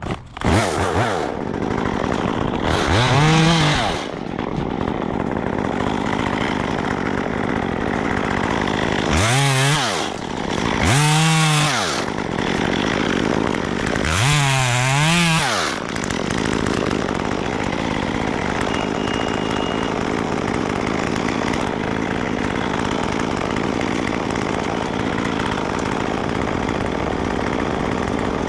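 Gas chainsaw starting just after the beginning and then running steadily, its engine revved up and back down four times in the first half.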